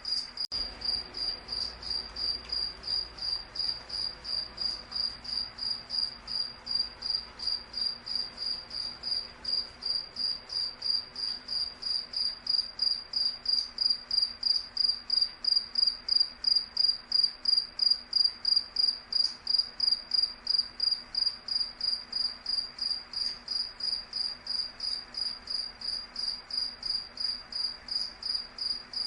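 A cricket chirping steadily, about three short high-pitched chirps a second, growing louder in the middle and easing off again toward the end.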